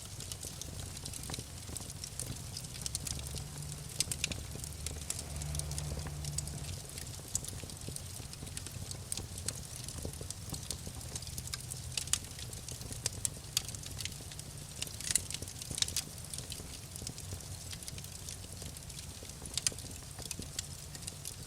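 Wood fire crackling in a fireplace: irregular sharp pops and snaps over a steady low rumble, with a few louder snaps in the second half.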